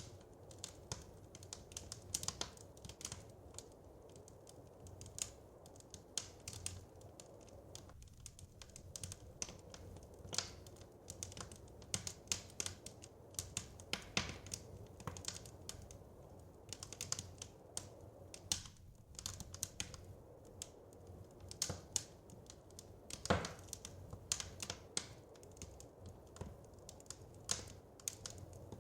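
Wood fire crackling: many irregular sharp snaps and pops over a steady low rumble, with a loud pop about 23 seconds in.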